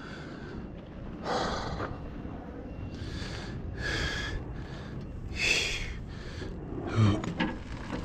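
A man breathing hard in short, irregular puffs, winded from heavy lifting, with a low knock about seven seconds in.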